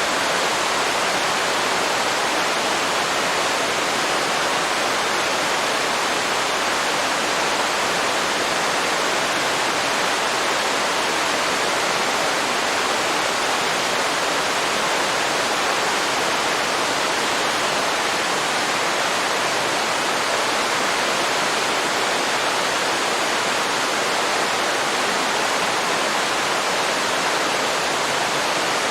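Waterfall pouring steadily into a river, a dense even rush of falling water.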